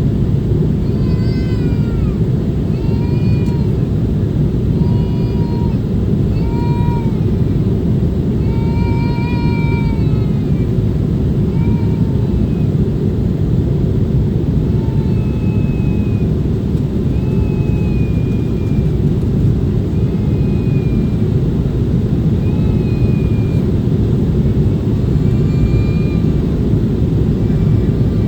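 Steady low roar of jet engines heard inside an airliner cabin, with short high rising-and-falling cries repeated every second or two over it, fainter in the second half.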